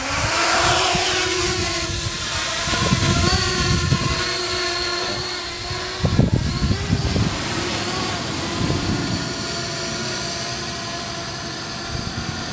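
Parrot Bebop quadcopter's four electric motors and propellers spinning up for takeoff, rising in pitch in the first second, then holding a steady multi-toned whine as it hovers. Low buffeting rumbles come and go on the microphone.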